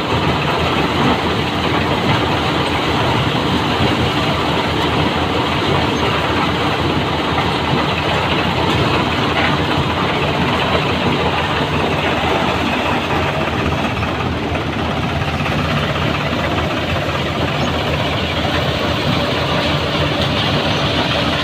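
Eicher tractor's diesel engine running steadily, with an even, unchanging engine note.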